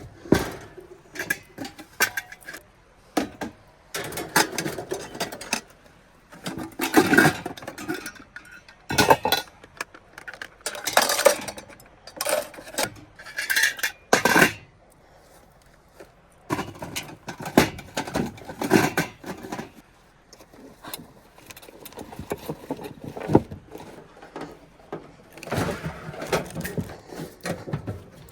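Camp cookware and cutlery clinking, clattering and scraping in irregular bursts as dishes and food scraps are cleared up after a meal.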